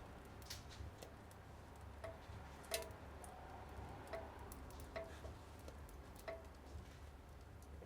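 Small metal wood-burning stove giving sparse sharp ticks and pops, about one a second at uneven spacing, several with a brief metallic ring, over a faint low hum.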